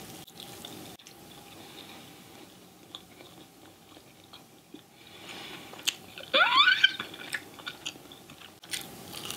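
Close-miked chewing of crispy almond-flour-fried cod: soft crunches and wet mouth sounds, with a few sharp clicks. A little past the middle comes a short rising vocal sound from the eater, the loudest moment.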